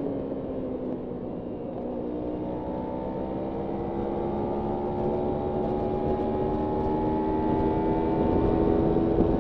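Kawasaki Ninja 300's parallel-twin engine under way, its pitch dipping briefly and then rising slowly and steadily as the bike pulls through the revs. Wind rush on the microphone sits under the engine note.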